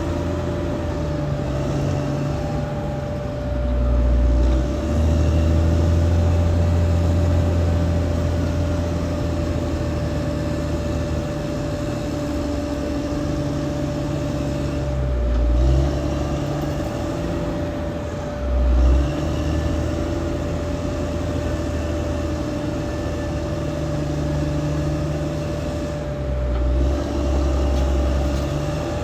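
Caterpillar D6R XL bulldozer's diesel engine running continuously, its low note swelling several times as the load changes, with a steady high whine throughout.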